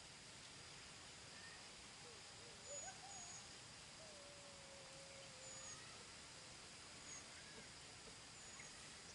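Faint bird calls over a quiet steady hiss: a warbling call about three seconds in, a long, slightly falling whistle a second later, and several short high chirps.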